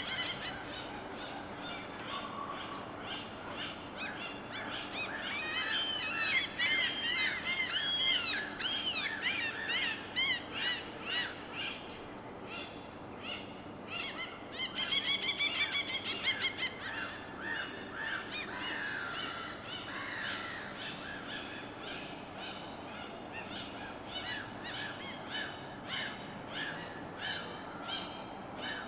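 Birds calling and chirping over a steady wash of water, with quick runs of repeated arched notes about six to ten seconds in and again around fifteen seconds.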